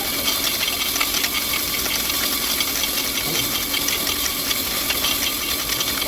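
Diesel truck engine running, with a steady hiss and a fine rattle.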